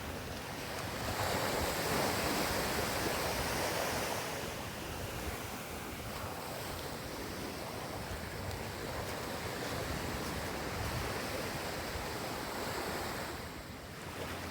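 Caribbean surf washing onto a sandy beach, a steady rush that swells for a few seconds about a second in and eases near the end, with some wind buffeting the microphone.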